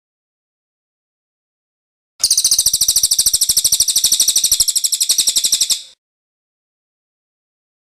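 Cililin bird's rolling trill: a rapid, even run of high notes lasting about three and a half seconds, starting about two seconds in, with dead silence before and after.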